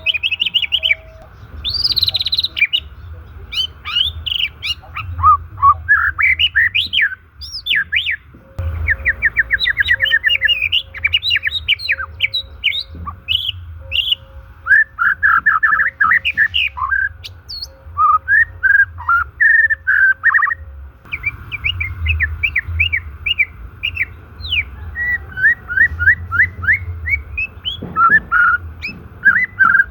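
White-rumped shama (murai batu) singing a fast, varied song of clear whistles, chirps and rising and falling glides, phrase after phrase with brief pauses.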